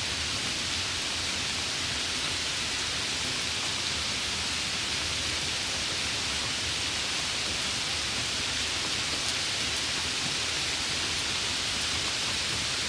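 Steady rain, an even hiss with no breaks or changes, brightest in the upper middle range.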